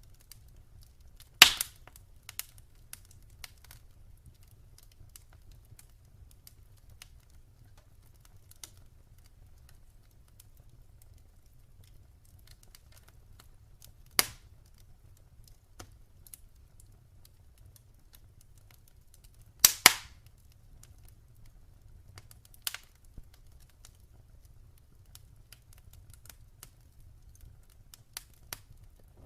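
Wood fire in a fireplace crackling: scattered small ticks and a few loud sharp pops, the loudest about a second and a half in, another near the middle, and a double pop about twenty seconds in, over a faint low rumble.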